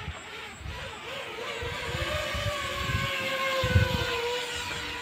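Small quadcopter drone's propellers whining, the pitch wavering slightly as it manoeuvres and growing louder as it comes close, with low gusty rumbles beneath.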